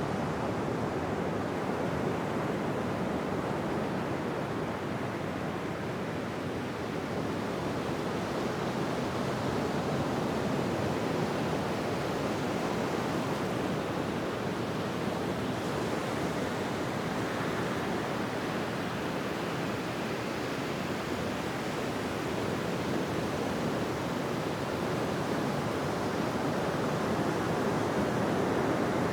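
Ocean surf washing onto a beach: a continuous rushing wash of waves with only gentle swells in loudness.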